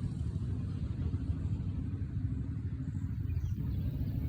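Small minibike engine running steadily, a low, even sound with a rapid pulsing texture.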